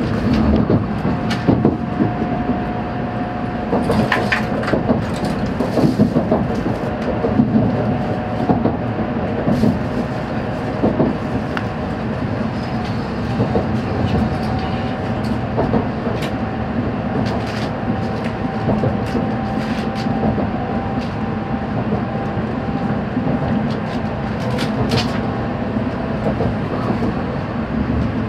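Shinkansen bullet train running at speed, heard inside the passenger cabin: a steady rumble with a low hum. A faint whine steps up slightly in pitch about halfway, and scattered clicks come from the wheels on the rails.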